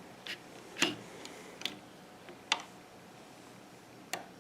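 A handful of small, irregular clicks and taps from a plastic Fun Loom hook and rubber bands against the loom's pegs as bands are looped from peg to peg.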